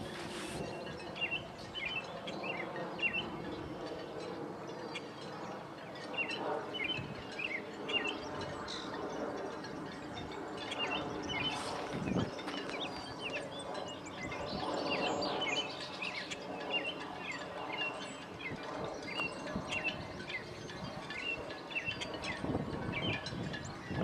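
Small birds chirping, short high notes repeated over and over, with lower drawn-out calls underneath at times.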